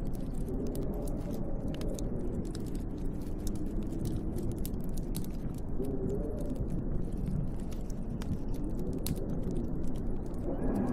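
Snowstorm wind howling steadily with a slow, wavering low whistle, over the fine crackling and popping of a wood fire in a fireplace.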